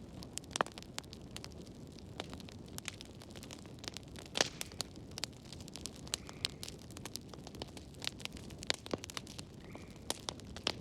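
Wood fire burning in a fireplace: a low steady rumble with irregular crackles and pops, the loudest snap about four seconds in.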